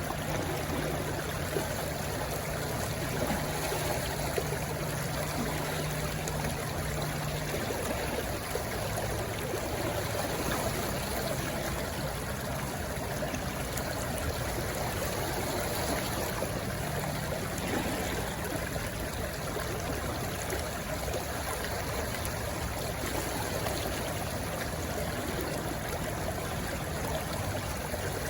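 A small stream rushing and trickling steadily over stones, in an even wash of water noise.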